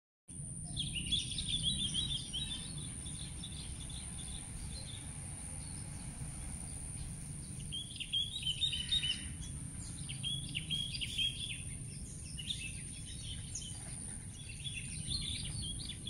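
Small birds chirping in short twittering bursts, several times, over a steady low background rumble and a constant high, thin tone.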